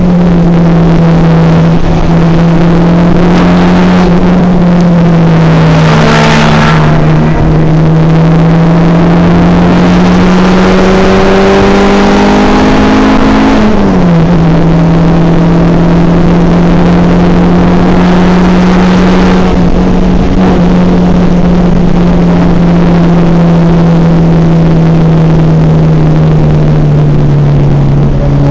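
Honda Civic's four-cylinder engine pulling hard at high revs, heard from inside the cabin. Its pitch climbs from about eight seconds in, drops sharply at a gear change around fourteen seconds, then holds steady. A brief whoosh comes at about six seconds.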